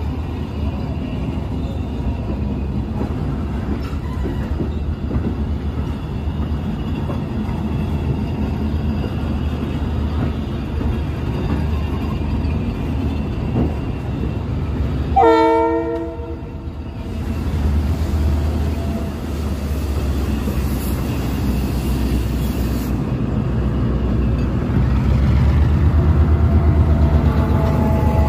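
Diesel-hauled passenger train rolling past with a steady low rumble. It sounds one horn blast of about a second roughly halfway through. The locomotive's engine grows louder near the end as it comes close.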